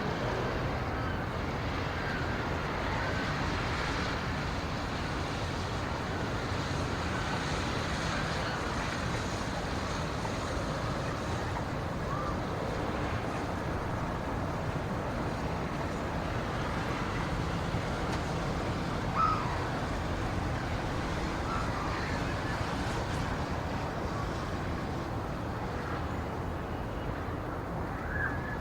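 Steady rushing ambient noise, heaviest in the low end, with a few faint short high chirps scattered through it.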